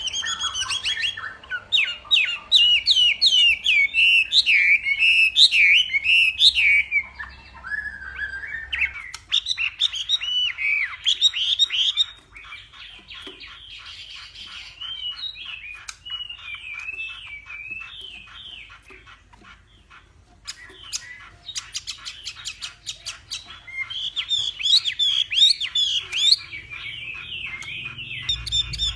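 Chinese hwamei (hoạ mi) singing a fast, varied song of rapid gliding whistled phrases. The song is loud for the first twelve seconds, softer and more broken in the middle, and loud again near the end.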